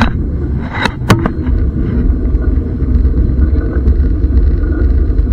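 Historic train running, heard from aboard: a steady low rumble with a couple of sharp clicks about a second in.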